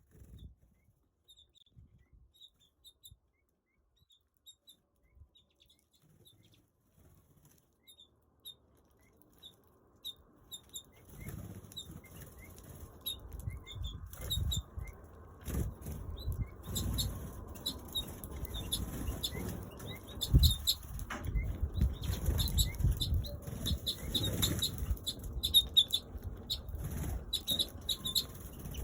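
Small aviary birds flapping their wings in repeated flurries and giving short high chirps. There are only a few faint chirps at first, then from about eleven seconds in it turns busy with constant fluttering and chirping.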